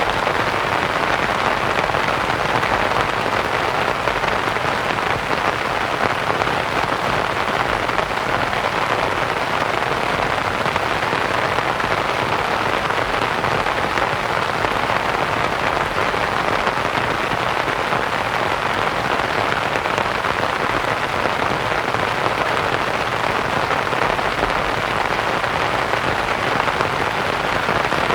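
Steady rain pattering on a canvas tent, mixed with a constant white-noise hiss.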